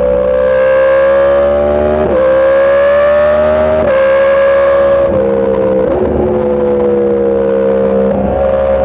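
Yamaha MT-10's inline-four engine under way at speed, with its note climbing slowly and then stepping down sharply at gear changes about two, four and five seconds in, and rising again near the end.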